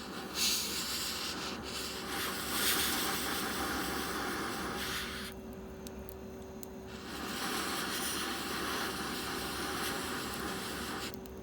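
Rubbing and scraping noise in two stretches of about five and four seconds, with a short pause between them.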